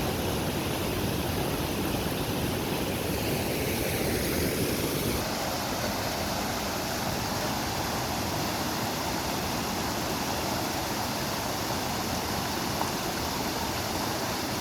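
Rushing water of a river swollen by monsoon rain, a steady loud wash of noise. About five seconds in the sound shifts, with less low rumble and more hiss.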